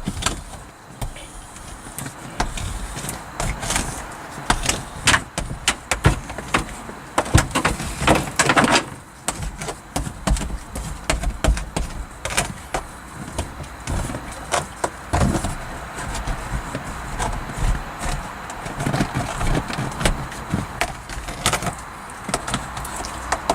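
Sound deadener mat being rolled and pressed onto a car's sheet-metal roof panel, with many irregular knocks and clicks from the roller and hands working against the metal.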